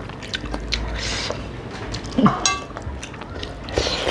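Close-miked eating by hand: chewing and lip-smacking of rice and curry, a run of small wet mouth clicks, with a brief squeak about halfway through.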